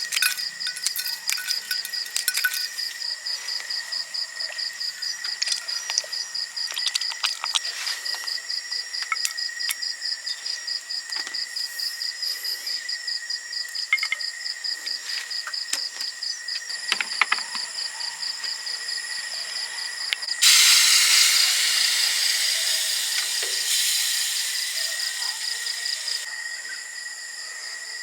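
Night insects, crickets among them, trilling steadily with a fast pulsing high note and a second steady note. About two-thirds of the way in, a loud hiss starts suddenly and fades away over several seconds.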